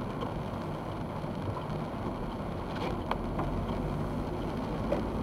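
Steady rumble of a car driving, picked up inside the cabin by a dashcam, with a couple of faint ticks about three seconds in.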